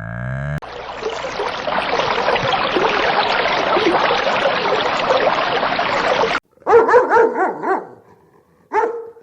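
Dog barking in short runs of barks, starting about two-thirds of the way in. Before that comes a dense, continuous din that stops abruptly.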